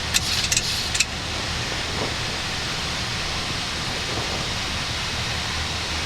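Steady rush of air and engine noise on a Boeing 737-800's flight deck during the climb after takeoff, with a few short clicks in the first second.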